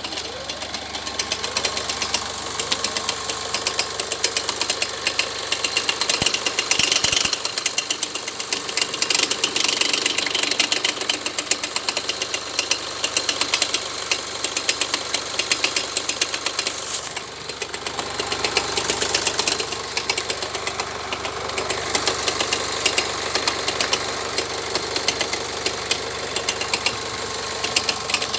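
Mazda 6 2.2 diesel four-cylinder engine running with a rapid, even knocking from under the bonnet. A new belt tensioner has not cured it, and the owner, following forum advice, suspects a failing alternator overrunning clutch pulley.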